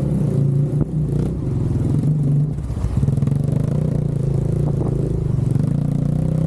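KAYO T4 enduro motorcycle's single-cylinder engine running steadily, easing off briefly about two and a half seconds in, then picking back up to an even pulse.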